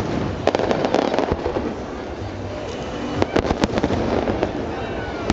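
Nagaoka aerial firework shells bursting: a rapid cluster of sharp bangs and crackles about half a second in and another about three seconds in, over a continuous low rumble.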